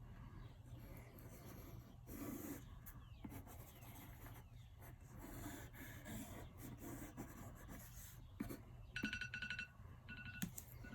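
Quick drawing strokes scratching on paper, faint, over a steady low hum. About nine seconds in, a rapid electronic beeping sounds, and again briefly about a second later, consistent with a timer going off at the end of a 10-second drawing limit.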